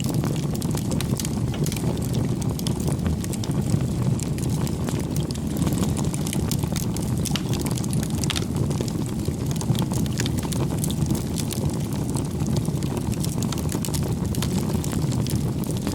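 Wood fire burning: a steady low rumble with frequent small crackles and pops.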